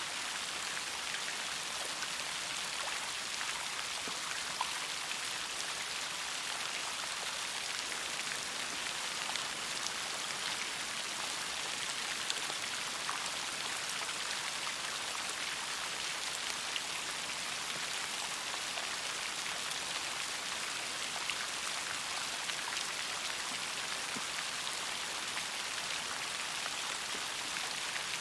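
Steady rain falling: an even hiss made of countless small drop impacts, with occasional slightly louder single drops.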